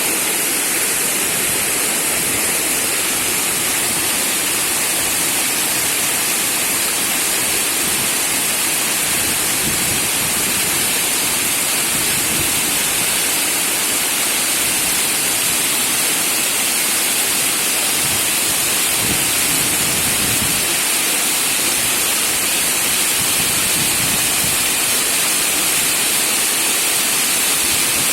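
Shumka waterfall on a mountain river: a loud, steady rush of falling water.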